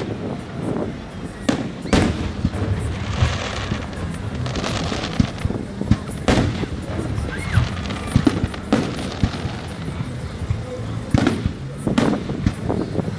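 Aerial fireworks exploding: a string of sharp bangs at uneven intervals, with bursts of crackling about three to five seconds in.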